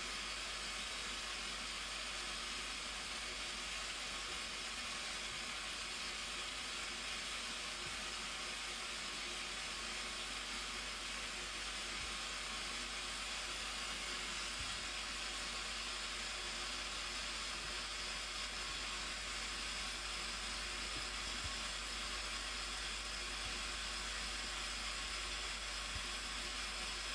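Waterfall making a steady, unbroken rushing hiss of falling water, with a faint low rumble beneath.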